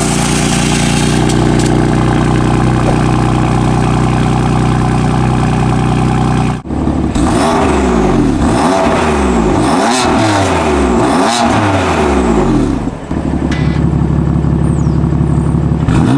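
BMW F82 M4's S55 twin-turbo straight-six engine running. It holds a steady note, then breaks off into a series of repeated revs that rise and fall, then settles back to a steady note.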